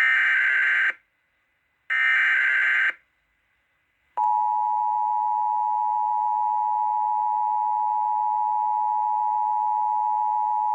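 Emergency Alert System broadcast signal. Two harsh, buzzy bursts of about a second each of SAME digital header data come first, a second apart. About four seconds in, the steady two-tone attention signal starts and holds, marking an incoming severe thunderstorm warning.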